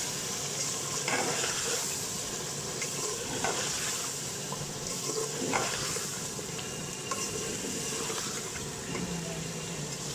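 Chicken curry with freshly added peas and potatoes sizzling in a pot of hot ghee as it is stirred, with scattered scrapes and knocks of the spoon against the pot.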